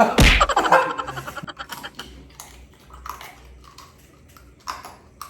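A loud thump right at the start, then crunching and chewing of crispy deep-fried pork, irregular crisp crackles that grow quieter after about a second.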